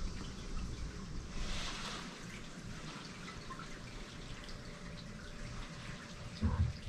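Typhoon rain falling and dripping, with scattered small drips over a steady hiss and a low rumble.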